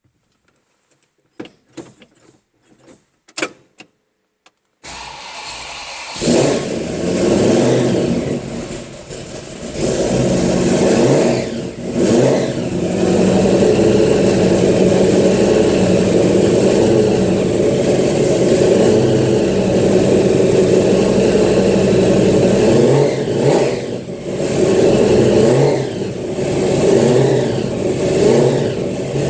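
Supercharged engine starting for the first time: a few faint clicks, then cranking about five seconds in, catching about a second later and running loud. The revs rise and fall several times as it runs.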